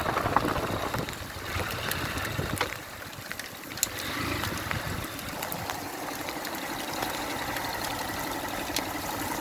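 Motorcycle running slowly in the rain, a low engine sound under a steady wash of rain and water noise with scattered drop clicks.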